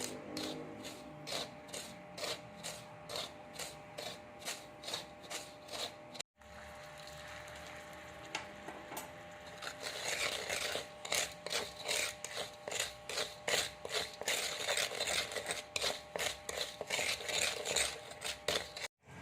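Rhythmic scraping strokes, about two or three a second, then quicker and denser from about halfway through.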